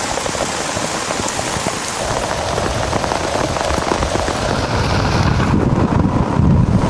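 Heavy rain pouring steadily. In the last second and a half a deep rumble of thunder swells up under it.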